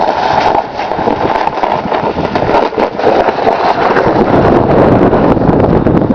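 Wind buffeting the camera microphone in a blizzard, a loud rough rumble.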